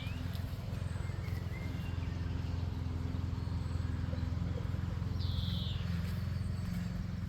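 A single short, high bird call about five seconds in, over a steady low rumble of outdoor background noise.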